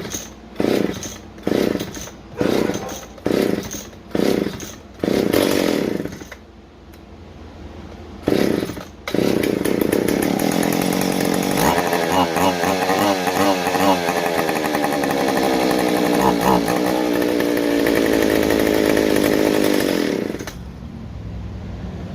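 McCulloch Pro Mac 610 two-stroke chainsaw being pull-started on its replacement Walbro carburetor: several quick pulls of the starter cord, a short pause, then one more pull and the engine catches. It runs with the throttle changing pitch, then drops back to a lower idle near the end.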